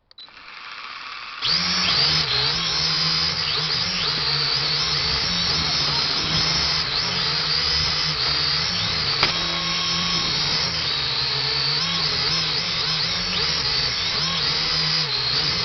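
Quadcopter drone's motors and propellers spinning up, then running steadily as a loud whine whose pitch keeps wavering up and down as the drone holds and shifts in flight.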